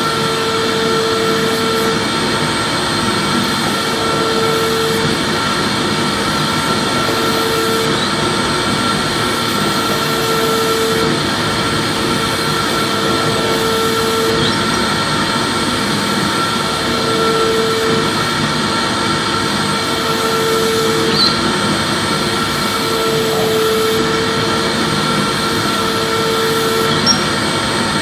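Vacuum cleaner running steadily: a constant rush of air with a thin high whine, and a lower hum that swells and fades every two or three seconds.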